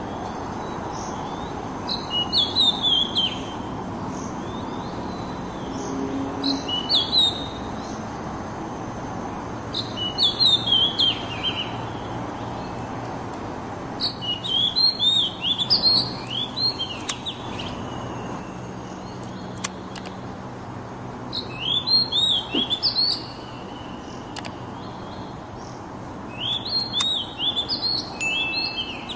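Oriental magpie-robin singing: six short phrases of whistled, sliding notes, each a second or two long and spaced about four seconds apart. A steady low hum runs underneath.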